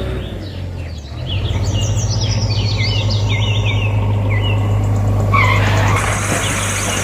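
Small motor running with a steady, pulsing low hum that gets louder about a second in, with birds chirping over it.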